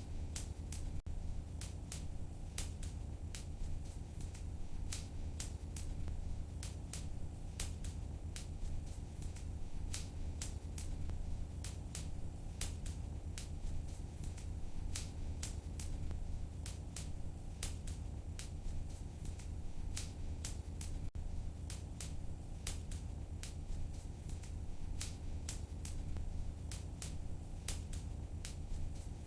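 Wood fire in a fireplace crackling, with many sharp irregular pops and snaps, several a second, over a steady low rumble.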